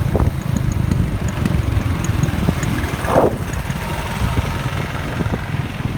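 Royal Enfield motorcycle engine running, a steady low pulsing beat, with a brief higher-pitched sound about three seconds in.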